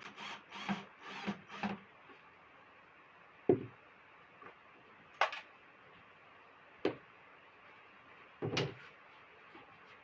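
Handling knocks and scrapes from work on an old speaker: a quick run of about five short scrapes in the first two seconds, then four separate knocks a second or two apart.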